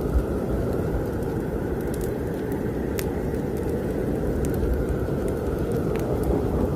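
Wood fire crackling in a fireplace, with scattered sharp pops, over the steady low rumble of snowstorm wind.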